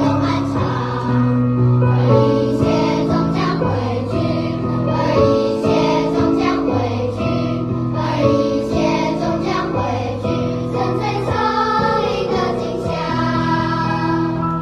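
Children's choir singing a slow song in sustained, held notes, with accompaniment under the voices.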